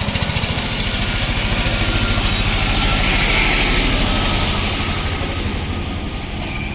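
An engine running steadily at idle with a fast, even pulse, and a swell of hiss about halfway through.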